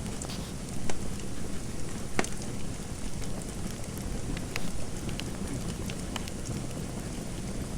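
Fireplace fire crackling: a steady low hiss and rumble with irregular sharp pops, the loudest about one and two seconds in.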